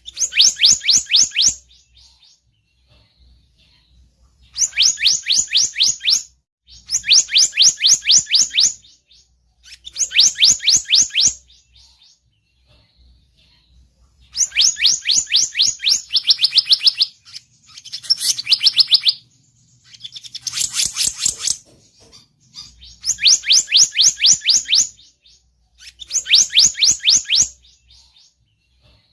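Recorded lure call (pikat) of the selendang biru bird. It repeats phrases of rapid rising chirps, each lasting about a second and a half, with pauses of one to three seconds between them. About two-thirds of the way through, one phrase is harsher and scratchier.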